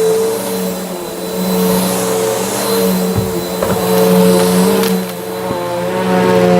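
Bissell vacuum cleaner running, its motor and brushroll humming steadily and swelling and easing in loudness. A few short sharp crunches near the middle come from debris being picked up by the brushroll.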